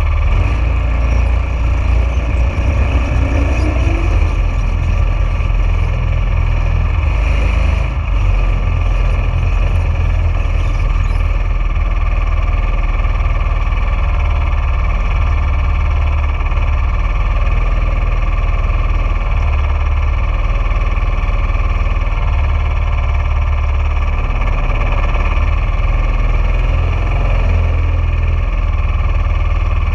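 Junior dragster's single-cylinder engine running steadily, with a constant low, heavy rumble.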